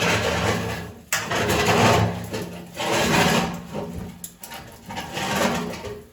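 Metal chimney pipe scraping and rattling against the flue as it is pushed up the chimney, in several drawn-out pushes of about a second each.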